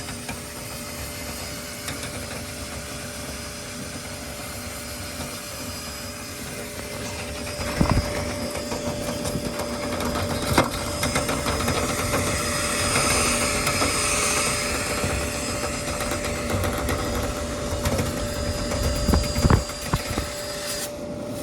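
Power drill spinning a rotary dryer-vent cleaning brush on rods down the vent duct: a steady motor whine over the brush scrubbing and rattling inside the pipe. It grows louder about eight seconds in, with a few sharp knocks of the rod against the duct.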